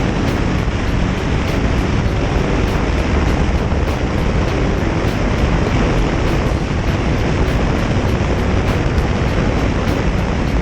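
Motorcycle riding at road speed: a steady rush of wind noise on the microphone mixed with engine and road noise.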